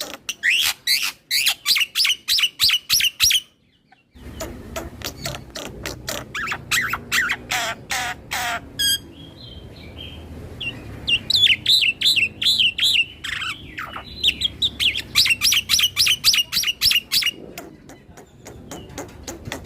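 Black-winged starling (jalak putih) singing in fast runs of short, sharp chirps that sweep downward, several a second. It breaks off briefly about three and a half seconds in and goes quieter for a couple of seconds in the middle before the runs resume.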